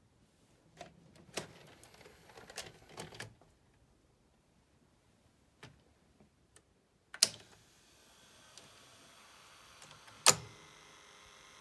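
Mechanical clicks and clunks of a 1982 SABA VR 6028 video recorder's freshly cleaned and re-belted tape transport, first a quick run of clicks, then a loud clunk after which the drive runs with a steady whir. Another loud clunk comes near the end.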